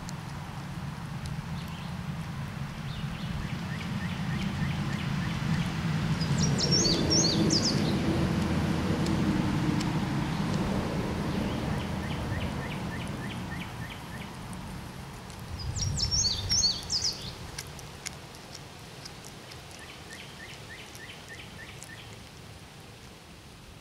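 Songbirds singing: a short bright twittering phrase twice, about ten seconds apart, with quick runs of chirps between, over a low rumble that swells in the middle and then fades.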